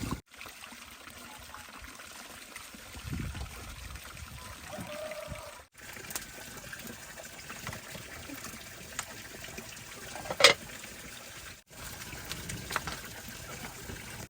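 Water trickling steadily, with a sharp knock about ten seconds in and a lighter tap a couple of seconds later.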